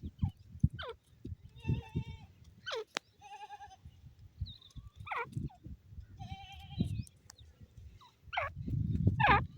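Grey francolin calling: a run of short calls, some sweeping quickly in pitch and some quavering, repeated every second or two. A low rumbling noise runs under the calls and is heaviest near the end.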